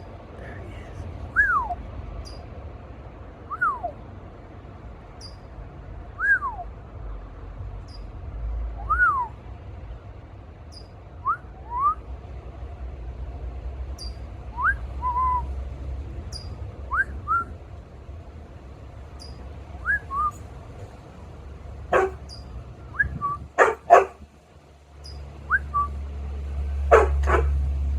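A person whistling a short falling note every two or three seconds, answered back and forth by a small bird's brief high chirps. Near the end come a few louder, sharper calls.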